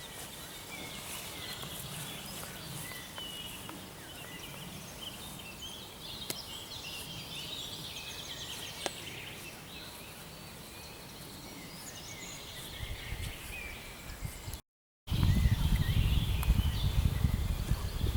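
Several songbirds singing and chirping over a quiet outdoor background. About fifteen seconds in the sound cuts out for a moment, then strong wind noise buffets the microphone over the birds.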